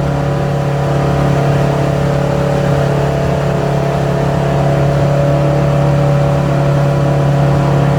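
A 25-foot cabin cruiser's engine running steadily under way, a constant low drone that grows slightly louder partway through.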